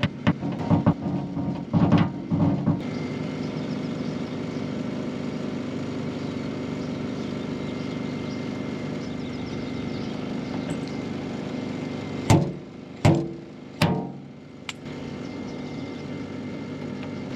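Paintless dent repair tools working a truck panel: a quick run of sharp taps and knocks, then a steady hum, then three loud sharp knocks about a second apart during the final glue pull.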